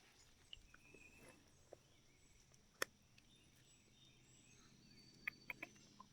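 Near silence: faint outdoor ambience with a few sharp clicks, one just before the middle and a quick cluster of three or four about five seconds in.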